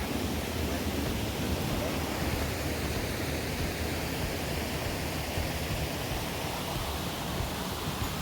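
Steady rushing of river water pouring over small waterfalls into rock pools.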